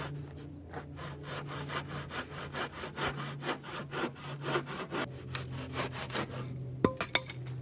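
Handsaw cutting through a wooden board in quick, even strokes, then stopping, followed by a sharp knock near the end.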